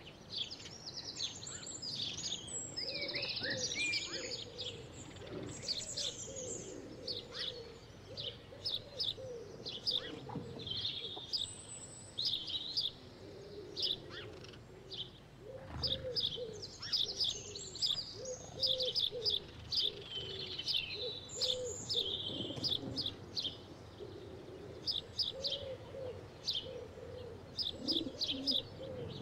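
Birds singing and chirping: quick high notes and trills over a lower call repeated again and again.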